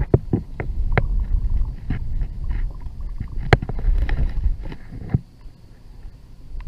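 Wind rumbling on the microphone aboard a kayak, with scattered sharp knocks and clicks against the boat. The wind drops away briefly near the end.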